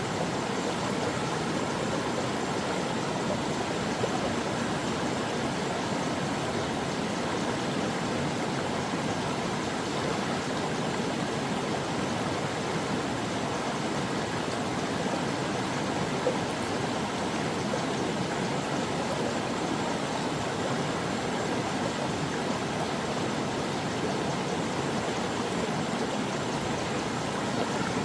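Brook water flowing steadily over rocks, a continuous even rush.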